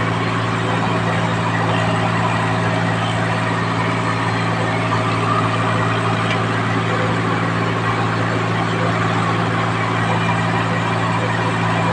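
Tractor's diesel engine running steadily at a constant speed, with an even low drone.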